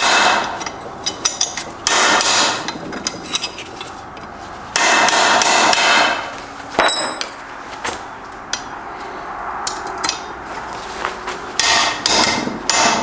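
Repeated hammer blows on steel, driving a punch against a stuck part inside a Subaru six-speed transmission to knock it out. The blows come in loud clusters, and one strike about seven seconds in rings out metallically.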